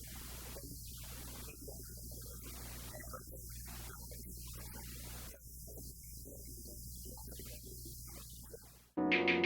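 Faint steady low hum with hiss, then loud music with a beat cuts in abruptly near the end.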